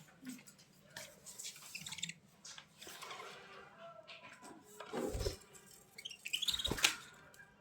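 Pet budgerigars chirping and chattering softly, with two louder thumps about five seconds in and near the end.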